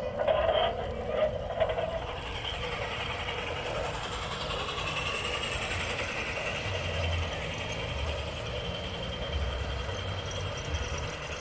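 Garden-scale model train running along its track, a steady mechanical whirring with a low rumble underneath.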